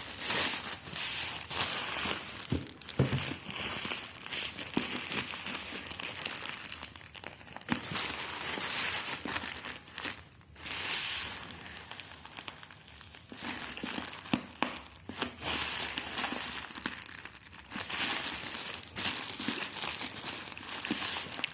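Plastic packaging being crinkled and torn open by hand, an irregular crackling that pauses briefly a couple of times.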